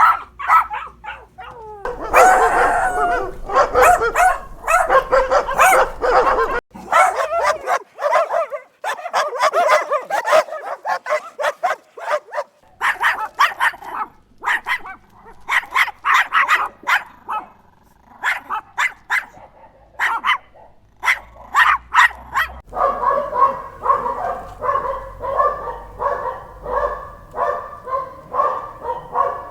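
Dogs barking in a string of separate recordings that change abruptly several times. Near the end comes a fast, even run of barks, about three a second.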